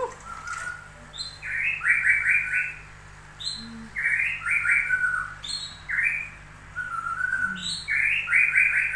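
A bird singing the same short phrase four times, about two seconds apart: a sharp high falling note, then a quick run of chirps.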